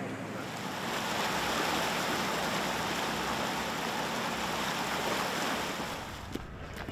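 Steady rush of fast-flowing floodwater, a river running in flood, easing off near the end.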